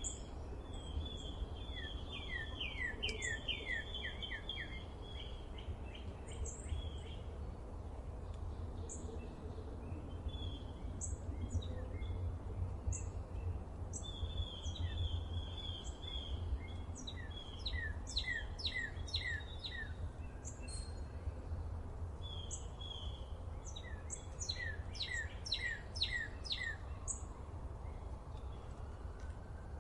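Songbirds singing: scattered short high chirps, and several runs of quick descending notes, the clearest about two seconds in, around eighteen seconds and around twenty-five seconds. A steady low rumble runs beneath.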